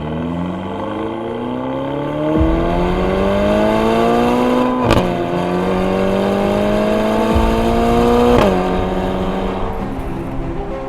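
Ferrari California T's twin-turbo 3.9-litre V8 accelerating hard, its pitch climbing steadily, then dropping suddenly at an upshift about five seconds in, climbing again and dropping at a second upshift near the end.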